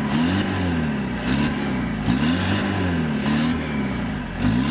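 Citroën Berlingo 2.0 HDi diesel engine running and being revved up and down over and over, its pitch rising and falling about once a second.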